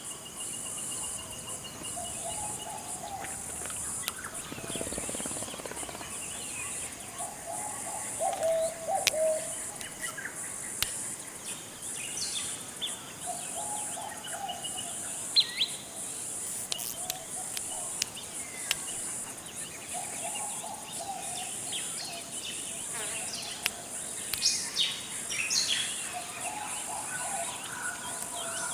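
Forest ambience: a steady high-pitched insect drone under many birds, with a low call repeated every few seconds, a rapid trill near the start, and scattered sharp chirps and whistles.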